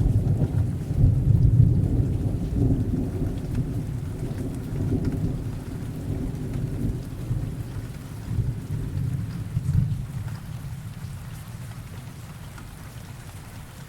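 Thunderstorm: a long, deep roll of thunder that swells several times and fades away, over steady rain.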